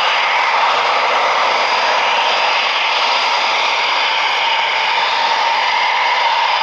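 Eurofighter Typhoon's twin EJ200 turbofan engines running loud and steady: a continuous jet rush with a steady whine.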